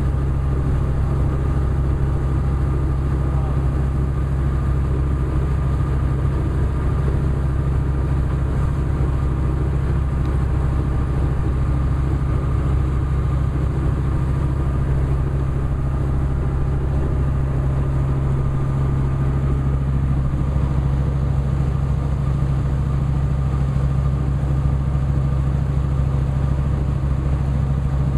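Boat engine running steadily, a constant low drone that holds the same pitch and level throughout.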